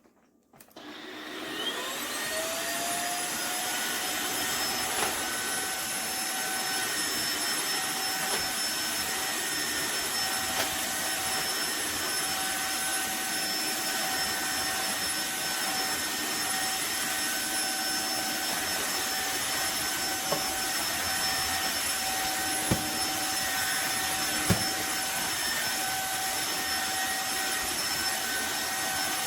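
Tineco iFLOOR 3 cordless wet-dry floor cleaner switched on. Its motor whines up to speed over about two seconds, then runs steadily with a high whine over a rushing hiss, with a couple of small clicks near the end.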